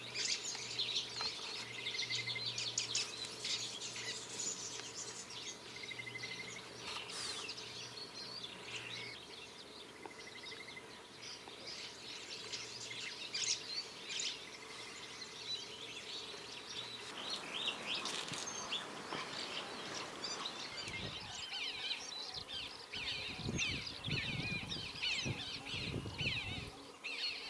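Many marsh birds chirping and calling at once in a dense, overlapping chorus of short high calls, with a brief repeated trill a few times early on. Irregular low rumbling noise joins in during the last several seconds.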